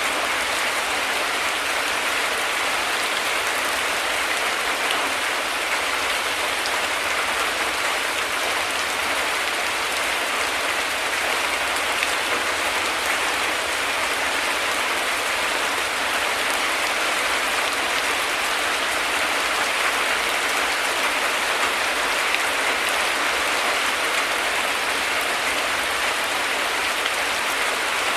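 Heavy rain falling steadily: an even, unbroken hiss of many drops, with no thunder.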